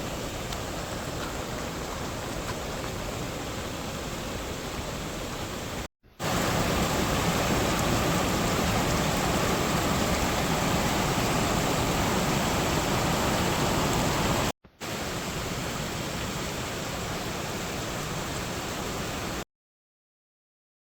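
Heavy rain falling as a steady, even hiss, broken by two abrupt cuts; the middle stretch is louder, and the sound stops dead near the end.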